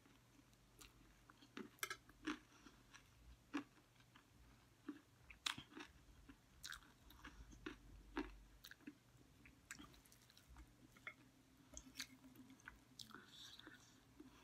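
Close-up chewing of chatpate, a crisp puffed-rice snack, with many soft irregular crunches and mouth clicks.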